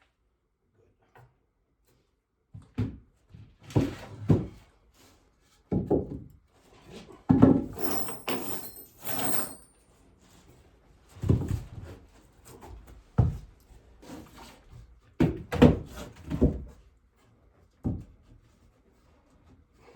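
Irregular wooden knocks and thumps of boards being handled and fitted, with a short rasping scrape about eight seconds in.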